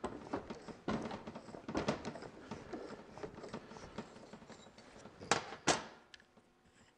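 Big pliers working a brass injector cup off the cup-removal tool: a run of small metal scrapes and clicks, then two sharp metallic knocks about five seconds in.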